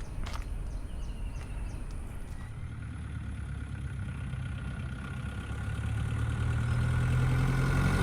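A motor vehicle's engine running, with a low hum that grows steadily louder over the last few seconds.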